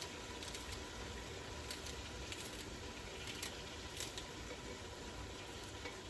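Green onions being cut up over a pot: a few faint, irregular cuts over the steady hiss of the pot cooking on the stove.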